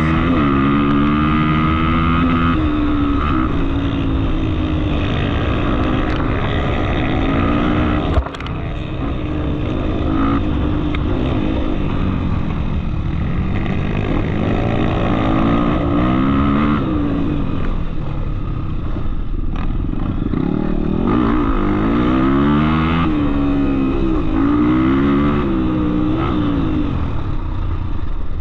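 Off-road trail motorcycle engine running while riding, revving up and down again and again as the throttle opens and closes. A single sharp knock about eight seconds in.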